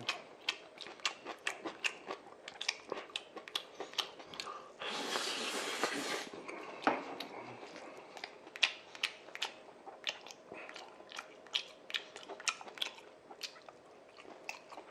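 Chewing a mouthful of black-bean-sauce noodles and beef: a string of wet mouth clicks and smacks, with a breathy noise lasting just over a second about five seconds in.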